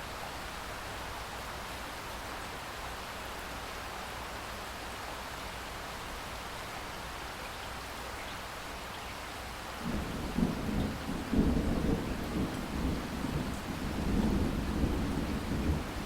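Steady rain falling, then low thunder rumbles in suddenly about ten seconds in and keeps rolling, loud and uneven, over the rain.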